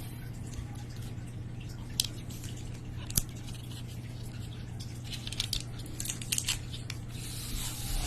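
Soft, close-up handling sounds of small objects: a couple of isolated clicks, then a cluster of short crackles about five to seven seconds in, over a steady low hum.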